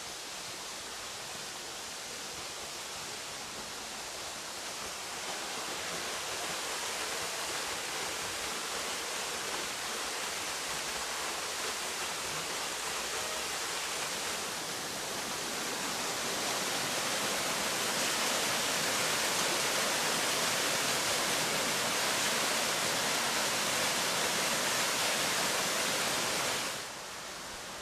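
Waterfall: a steady rush of falling water that grows louder about five seconds in and again around sixteen seconds, then drops off suddenly near the end.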